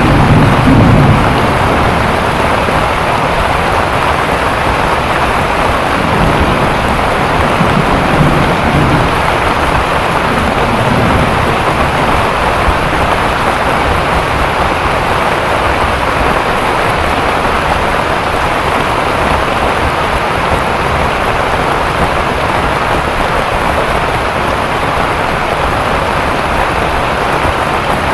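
Heavy rain pouring steadily, with low rolls of thunder rumbling at the start and again a few times around the middle.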